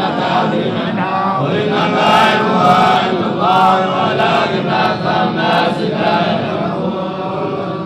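Quran recitation chanted by a male voice in long, drawn-out melodic phrases, dying away at the very end.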